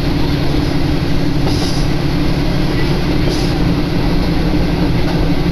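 Diesel railcar running along the line, heard from inside: a steady engine drone with a low hum over rumbling rail noise, and two short hissy swishes, about a second and a half and three and a half seconds in.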